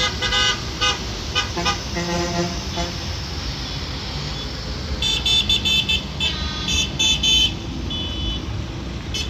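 Tractor horns tooting in short blasts of several different pitches over a steady low engine rumble. About five seconds in, a higher-pitched horn beeps rapidly many times in a row.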